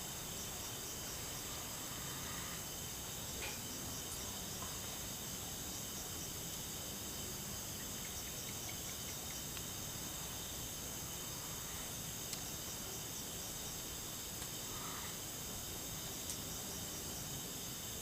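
Steady chorus of crickets and other night insects, several high trilling tones layered over faint background hiss, with a few faint ticks.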